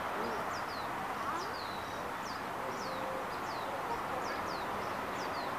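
Small birds chirping: short, high, downward-sliding chirps, two or three a second, over steady outdoor background noise.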